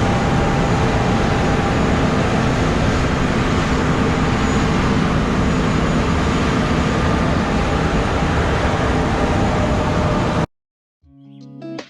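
Harvest machinery running steadily, a constant loud drone with a faint hum through it. About ten seconds in it cuts off abruptly, and plucked guitar music begins just before the end.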